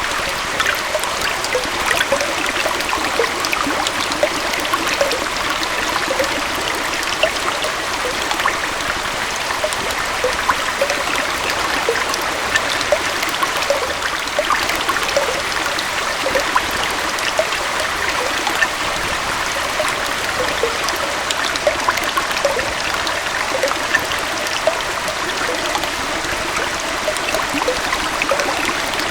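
Small forest waterfall and stream: water splashing and trickling over rocks, a steady rush with many small splashes and gurgles.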